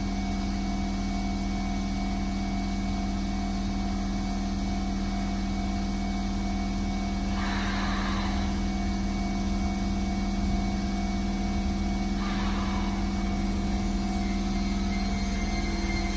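Shin-Keisei electric commuter train standing at the platform, its onboard equipment humming steadily with several steady tones. Two brief hissing swells come about seven and twelve seconds in.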